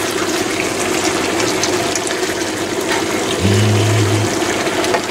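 Potato slices and onion frying in olive oil in a pan: a steady sizzle, with light scraping as a fork turns them. About three and a half seconds in, a brief low hum lasts under a second.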